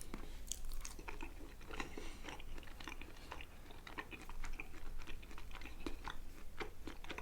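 Close-up eating sounds: a person chewing food with wet mouth clicks and smacks and some crunching, in many short irregular bursts.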